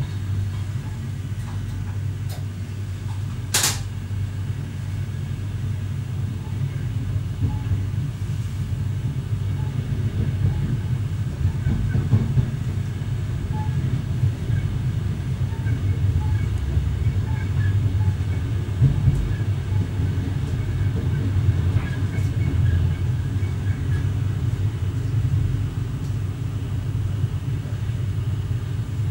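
Steady running rumble of an X11 electric multiple unit heard from inside the driver's cab: wheels on the rails and the train's running gear. There is one sharp click about three and a half seconds in.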